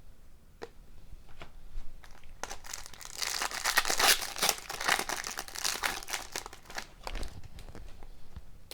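Foil trading-card pack wrapper being torn open and crinkled. The crackling is loudest from about two and a half to seven seconds in, with a few light handling clicks before it.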